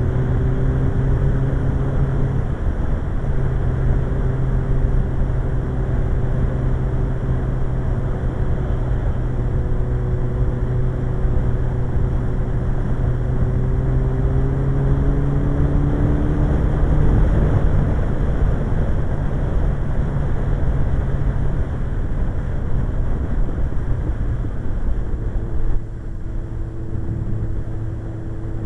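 Suzuki GSX-R 1100's inline-four engine running at a steady cruise, with wind rushing past. The engine note breaks briefly about two and a half seconds in and the sound drops a little near the end.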